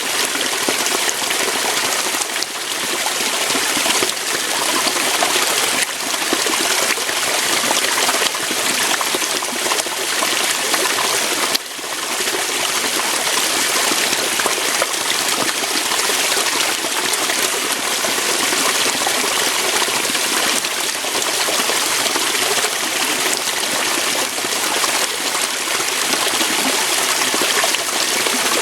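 Waterfall: water pouring and splashing over rocks, a steady, even rush of water.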